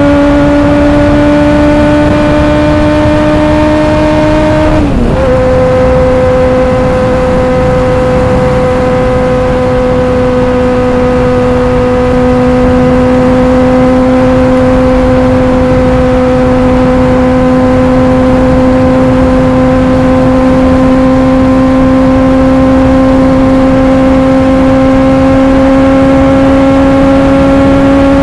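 Honda CBR400RR's inline-four engine running at high revs while riding, its pitch creeping slowly upward, with one gear change about five seconds in where the pitch drops sharply and then climbs again. A rush of wind noise runs underneath.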